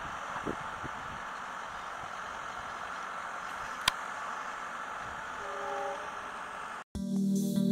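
Steady, distant running noise of a passenger train moving away down the track, with a single sharp click about four seconds in and a brief faint horn-like tone about five and a half seconds in. Electronic music starts abruptly near the end.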